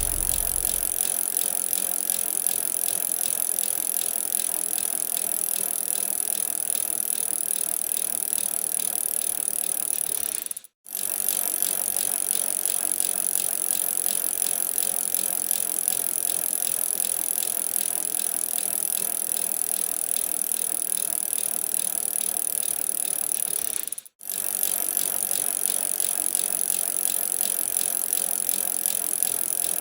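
A bicycle being ridden, its running gear and tyres making a steady noise. The sound cuts out for a moment twice.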